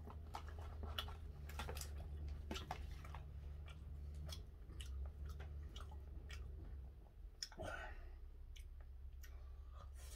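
Chewing and mouth noises close to the microphone, with many small clicks from chopsticks and a plastic food container. A steady low hum runs underneath.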